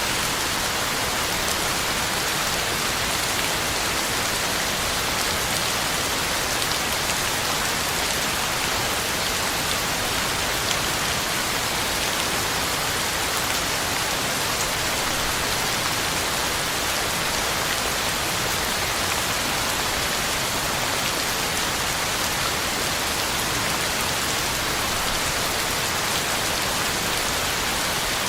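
Heavy rain falling steadily on the ground and leaves, a dense, even hiss with no letup.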